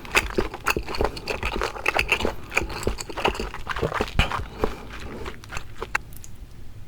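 Close-miked eating of raw seafood: a dense run of wet, smacking chewing clicks and crackles that stops about six seconds in.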